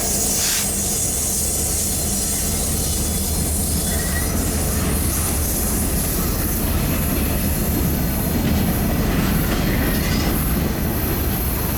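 Mixed freight train of boxcars, tank cars, covered hoppers, centerbeams and autoracks rolling past on the bridge: a steady rumble and clatter of steel wheels on the rails, with faint brief squeals.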